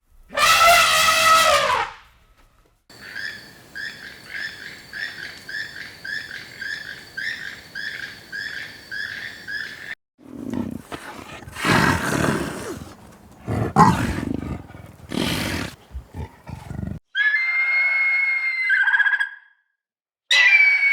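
A sequence of different animal calls with short gaps between them. First comes one falling call, then about seven seconds of quick repeated short calls, then several rough roars, the loudest part. Two higher pitched calls come near the end.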